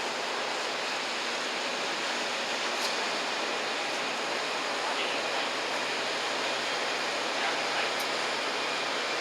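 Steady, even rushing noise of riverside outdoor ambience, with a few faint ticks.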